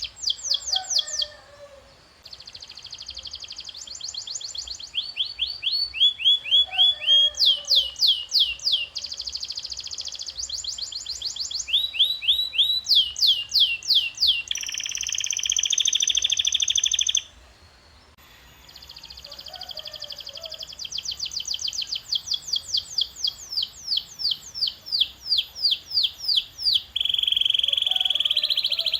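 Domestic canary singing a long song of fast repeated-note trills, switching to a new trill every second or two, with a dense buzzing trill and then a brief pause a little past halfway.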